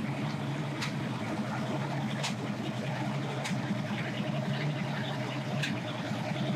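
An engine idling steadily with an even, low hum, and four short sharp clicks over it.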